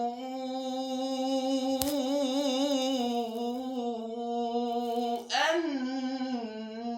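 Man's voice in melodic Quran recitation (tajweed), holding one long drawn-out note with a wavering ornament. A little after five seconds in the note breaks off, swoops upward and settles into another held tone.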